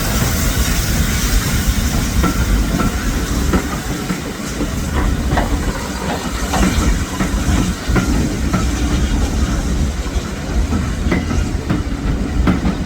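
Steam train hauled by BR Standard Class 8 Pacific 71000 Duke of Gloucester, rolling into a station. A steady heavy rumble with repeated wheel clicks over the rail joints and a hiss of steam.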